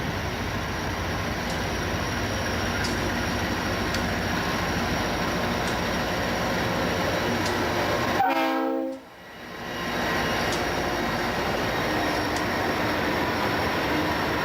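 Freight train rolling past with a steady rumble of wheels on rail. About 8 seconds in, a brief pitched tone is followed by a sudden drop in sound lasting about a second, after which the rumble of the train resumes.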